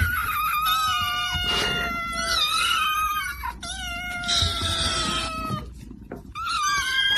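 Cat yowling in long, drawn-out calls, three in a row, the last starting near the end.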